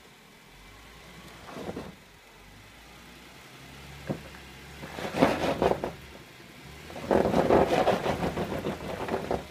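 Jeep Wrangler engine low and steady as it crawls over rock, with a sharp knock about four seconds in. It then revs hard twice under load, briefly and then for about two seconds, as it climbs the ledge.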